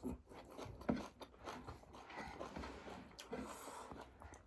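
Faint eating sounds: chewing and mouth noises with a few soft clicks, the loudest about a second in.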